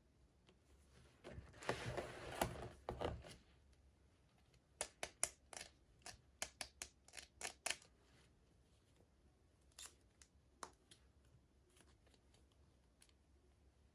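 Toy packaging being opened by hand: a rustling, tearing burst about a second in, then a quick run of about a dozen sharp snips or clicks, like scissors cutting through plastic, and two more a little later.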